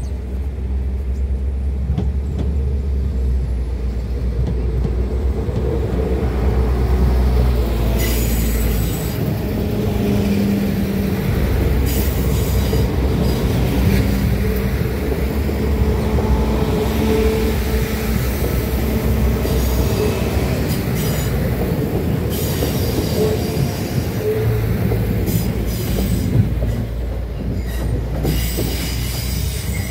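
NI Railways diesel multiple unit running past at close range. A heavy low engine rumble dominates the first several seconds as it approaches. Then, while the carriages go by, the wheels give a run of sharp clacks over the rail joints and crossing, dying away near the end.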